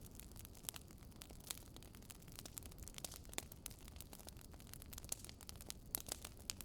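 Campfire crackling: frequent, irregular sharp pops and snaps of burning wood over a faint low rumble of the fire.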